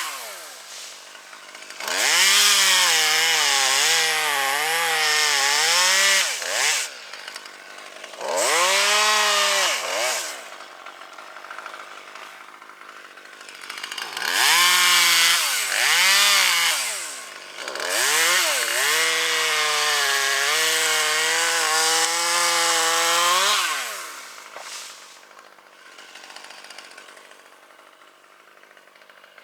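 Two-stroke chainsaw cutting wood in four long bursts at full throttle, its pitch dipping and rising as the chain bites. Between bursts it drops back to idle, and it falls quieter near the end.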